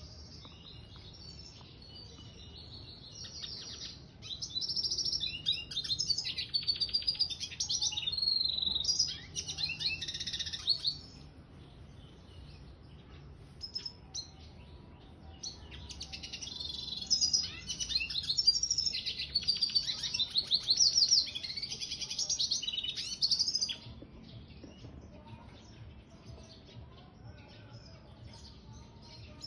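Mule siskin, a red siskin × canary hybrid finch, singing in two long, rapid twittering song bursts separated by a pause with a few scattered chirps.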